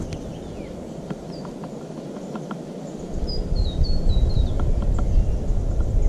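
Birds calling in short high chirps, with a quick run of falling notes about three to four seconds in. Scattered light clicks, and a low rumble that gets louder about three seconds in.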